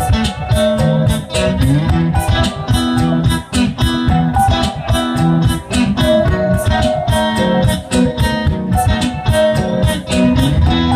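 Rock band playing an instrumental passage, guitars over a steady drum beat, heard through loudspeakers recorded from too close, so heavy bass swamps the mix.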